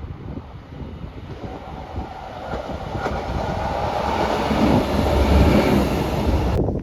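A train running past on the line, growing louder as it comes closer, then cut off suddenly near the end.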